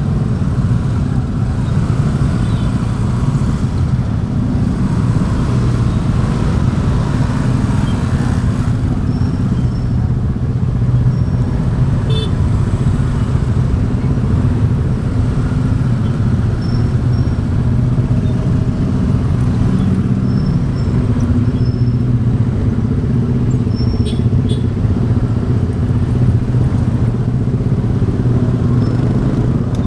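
Motorbike engine running steadily while riding, with road and wind noise and the sound of other traffic.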